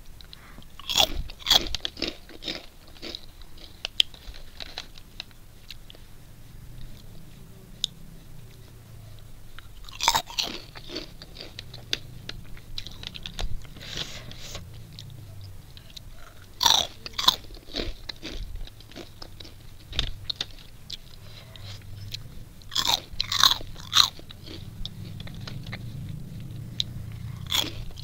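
Crunching and chewing of a crisp animal-shaped snack: four bursts of loud sharp crunches, about a second in, around ten seconds, around seventeen seconds and around twenty-three seconds, with quieter chewing between.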